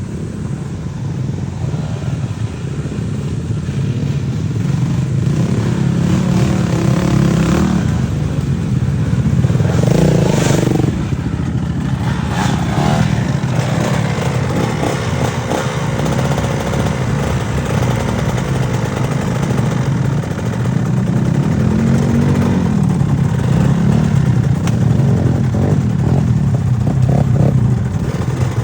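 Off-road motorcycle engine running steadily under load, its revs rising and falling a couple of times.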